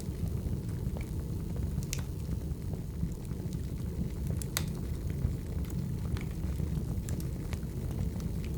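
Firewood burning: a steady low rumble of the fire with sharp crackles and pops about once a second, the loudest about two seconds and four and a half seconds in.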